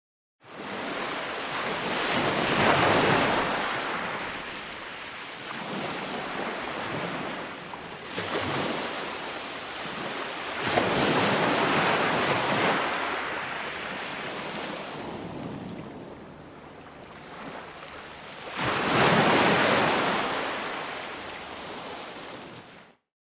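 Ocean waves breaking on a shore, the surf noise swelling and receding in three big surges about eight seconds apart, with a steady wash between them. It starts after a moment of silence and cuts off abruptly near the end.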